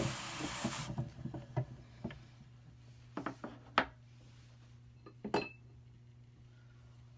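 Hand-crank drum carder turning, its fine carding cloth brushing through wool with a hiss and a rapid ticking, which stops abruptly about a second in. Then come a few scattered knocks and clicks as the carder is handled, the loudest a little before halfway.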